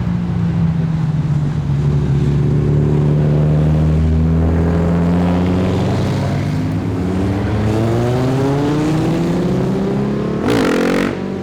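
A tuned car engine and exhaust running loud, with a steady low drone that slowly climbs in pitch as the car pulls away. A brief sharper rev comes near the end.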